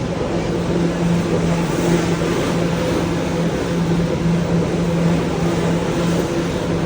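New York City subway train running: a loud, steady rumbling noise with a low hum holding through it.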